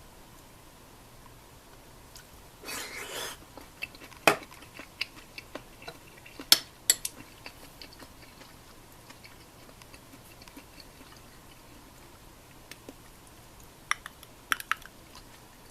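A short rustle, then scattered sharp clinks and taps of utensils against dishes or cookware, a few loud ones and many light ones.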